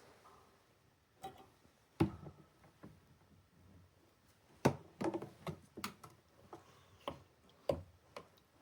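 Scattered knocks and clicks from switching off and handling anodizing equipment and parts, a few sharp strikes spaced a second or more apart with quiet between.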